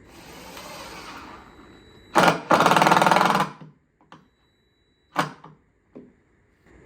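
A cordless drill driving a screw into wood: one short run, then a longer run of about a second, followed by a few light clicks and knocks of handling.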